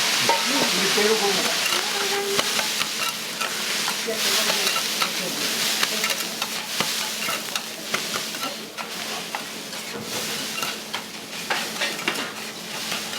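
Food sizzling on a hot iron teppan griddle while metal spatulas scrape, chop and tap against the plate in quick, uneven clicks. The sizzle is loudest in the first few seconds and eases off a little after.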